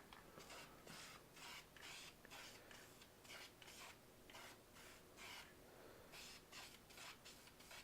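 Faint aerosol spray-paint can hissing in many short quick bursts, a light first coat going onto trim panels.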